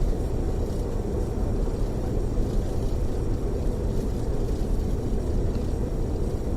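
Tour coach running at highway speed, heard inside the cabin: a steady low rumble of engine and road noise.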